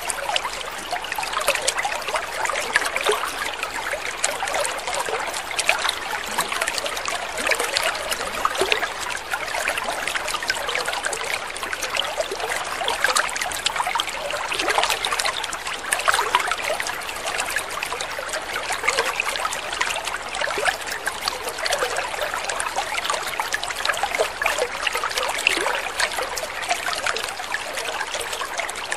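Water trickling steadily, a continuous babble of many small splashes and drips.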